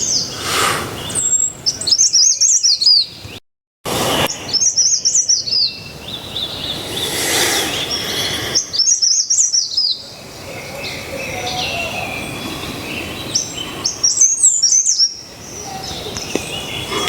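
Songbirds singing in repeated phrases of quick high chirps, about four bouts, over the steady rush of a small mountain water cascade. The sound cuts out completely for a moment a few seconds in.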